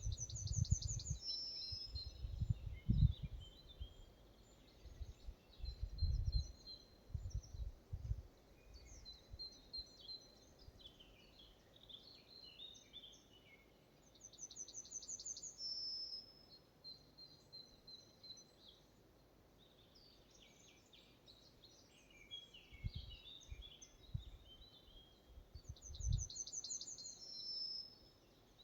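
Songbirds singing in a forest: one bird repeats a short phrase, a fast trill ending on a held note, about three times, among other scattered chirps. Low rumbling bumps come through early on and again near the end.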